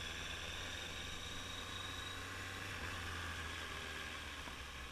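Honda CBR650F's inline-four engine running steadily at low revs as the bike rolls slowly over gravel, with an even hiss over the low engine hum on a helmet-mounted camera. The level eases slightly near the end.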